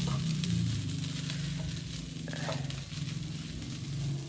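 Chicken fried rice sizzling in a pan, over a steady low hum.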